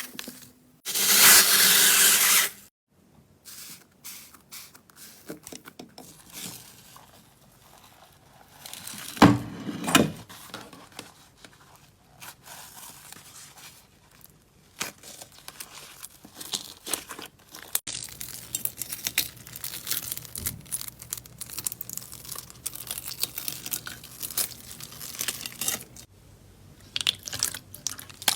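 Slime being handled, squeezed and poked by hand: a long run of small sticky crackles, clicks and pops, with a loud tearing burst near the start and denser crackling in the second half.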